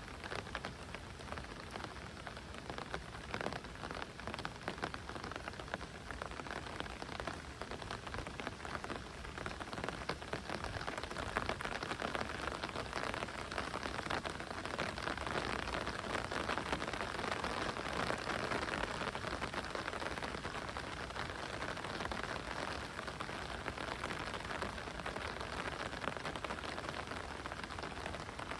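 Heavy rain falling steadily in a dense patter of drops, swelling a little louder in the middle.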